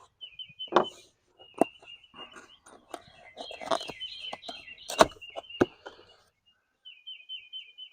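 Songbirds singing, repeated quick series of short high chirps, over the sharp clicks and rustling of a cardboard box and packaging being handled during an unboxing.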